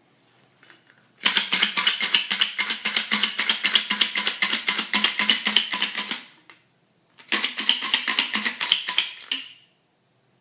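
A fast run of sharp, evenly spaced clicking pulses lasting about five seconds, then, after a short pause, a second shorter run.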